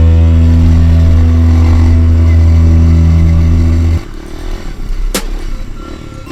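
A loud, steady low drone cuts off suddenly about four seconds in. It gives way to a dirt bike engine running at low revs with a wavering pitch, and a sharp click comes about a second later.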